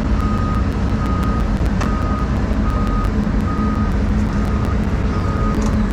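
Backup alarm beeping at one pitch, seven beeps a little under a second apart, over the steady low diesel rumble of a Doosan 350 excavator's engine.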